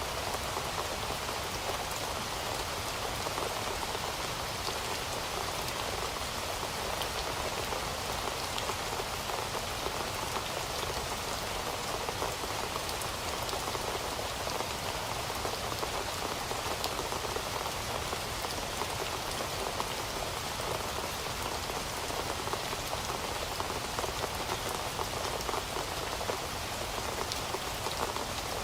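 Heavy rain falling steadily, a dense even hiss with many small drop ticks and no change in strength.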